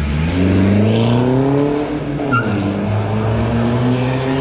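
Car engine revving hard: its pitch dips, climbs for over a second, falls back, then holds steady. A brief high squeal comes about two seconds in.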